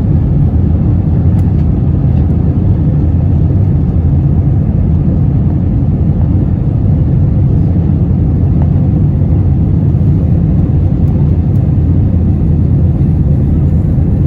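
Steady cabin noise inside an Airbus A321 in flight: the low, even drone of the engines and airflow around the fuselage.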